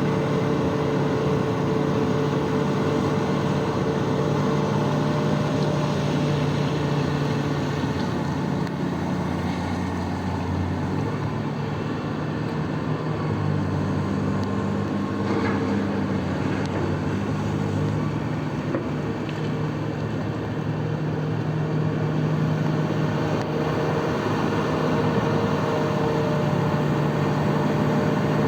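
Large diesel engine of heavy mining machinery running steadily under load. Its note drops a little and the sound eases slightly in the middle, then rises again.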